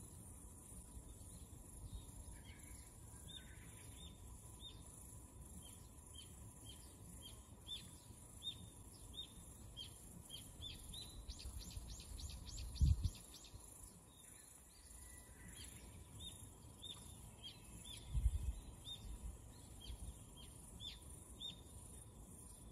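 A bird calling outdoors with short, falling chirps, about two a second, with a quicker, higher run of them a little past the middle, over a steady high hiss. Two low thumps stand out, one just after the fast run and one later.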